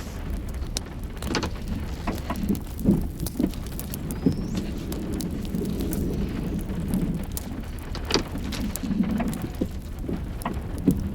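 Irregular ticks and knocks over a steady low rumble, patter-like, like precipitation striking a surface with a motor running.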